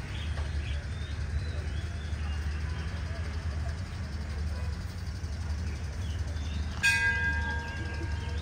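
A steady low rumble from the train at the station. About seven seconds in, a bell is struck once and rings on with several clear tones that slowly fade: a station bell signal.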